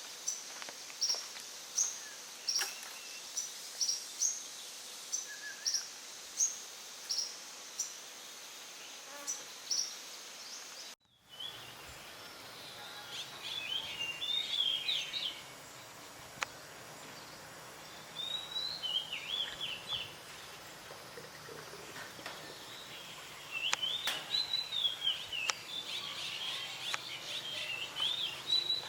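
Wild birds singing. First one bird repeats a short, high chirp at an even pace, a little more than once a second; then, after a brief break about eleven seconds in, a different bird sings warbling phrases in several bursts.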